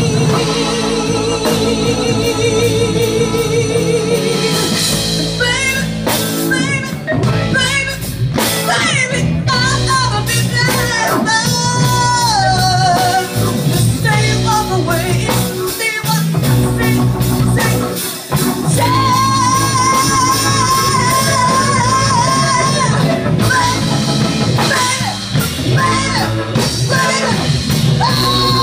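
Band music: a slow soul-blues ballad with drums and guitar, and long, wavering sung or lead lines without clear words.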